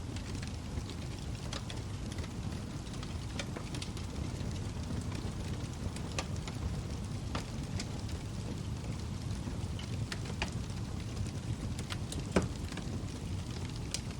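Wood logs burning in a fireplace: a steady low rumble of flames with scattered sharp crackles and one louder pop near the end.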